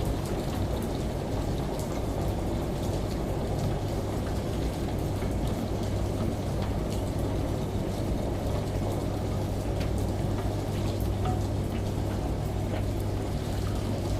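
Steady rain with scattered drops ticking, over the low, even hum of a washing machine running.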